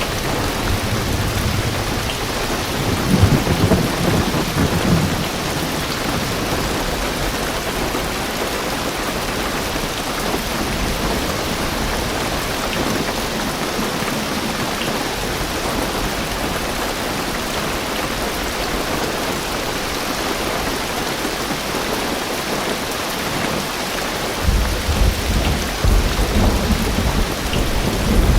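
Heavy rain drumming steadily on a car roof, with a low rumble of thunder about three seconds in and another rolling in near the end.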